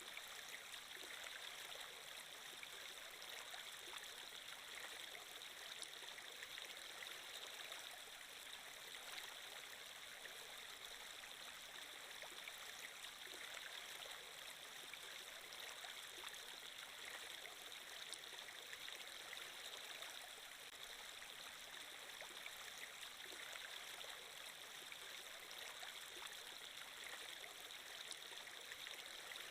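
Faint, steady water-flow ambience: a stream's running water, hissy and even throughout.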